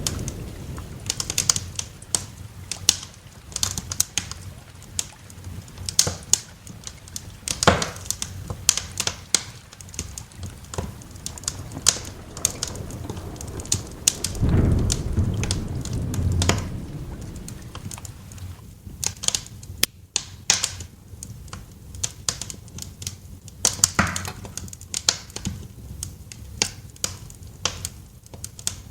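Wood fire crackling, with frequent sharp pops at irregular intervals. Roughly halfway through, a low rumble of thunder swells for a few seconds and fades.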